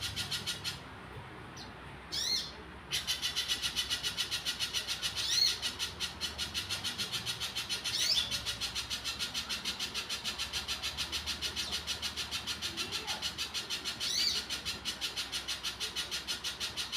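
Spiderhunter singing a long, fast run of sharp repeated notes, about five a second, broken by a short pause about a second in, with a higher upswept call every few seconds.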